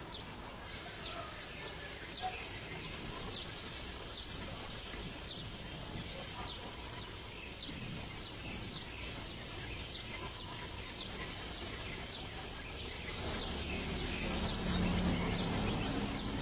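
Bar-winged prinia (ciblek) calling: a steady run of short, high, downward-slurred chirps, one or two a second. A low hum rises underneath in the last few seconds.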